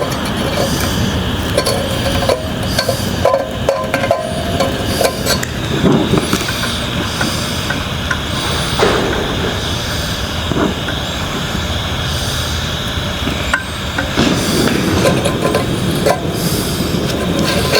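Scattered hammer strikes on metal over a steady rushing roar.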